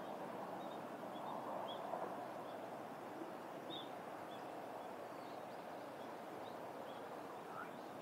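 Small birds giving short, faint high chirps every second or so over a steady outdoor background hiss.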